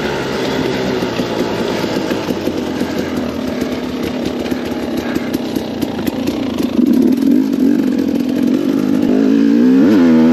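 KTM 250 XCW two-stroke dirt bike engine running under throttle on the trail. It gets louder about two-thirds of the way through, then the revs drop briefly and climb again near the end.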